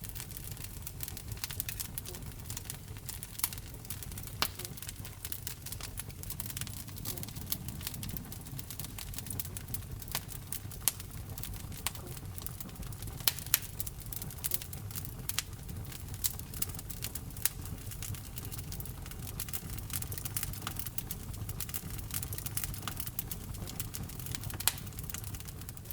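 Wood fire burning in a fireplace: frequent, irregular sharp crackles and pops over a low, steady rumble of the flames.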